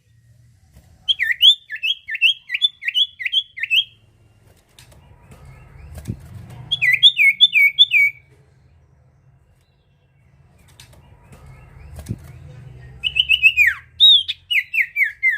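A sirtu songbird singing in three bouts of quick, repeated down-slurred whistled notes, about seven notes in the first bout, four in the second and seven in the last. A faint low rumble runs underneath.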